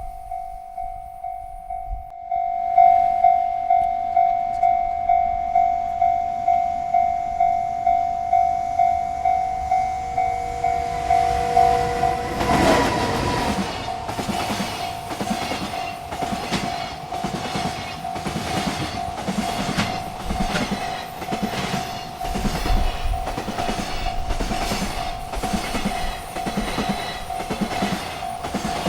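Railroad crossing bell ringing steadily, about two strokes a second. About twelve seconds in, a freight train reaches the crossing and its cars rumble past with a rhythmic clacking of wheels over the rail joints, the bell still ringing underneath.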